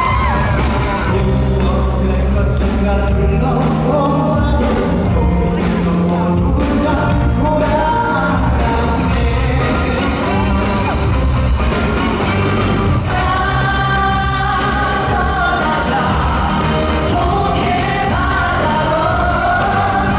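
Live concert music: a male singer's amplified voice over a full band with strong bass and drums, in an upbeat rock style.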